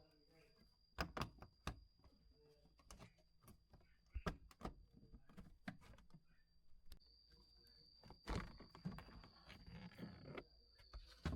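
Faint, scattered knocks and clicks, thickening into a cluster of small rattles about two-thirds of the way through, over a faint steady high-pitched tone.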